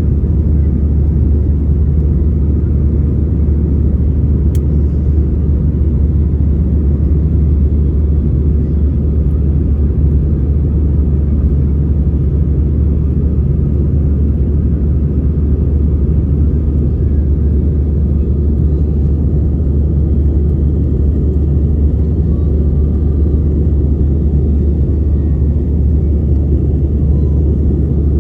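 Steady low drone inside the cabin of an Airbus A320 airliner in flight after takeoff: engine and airflow noise, unchanging throughout.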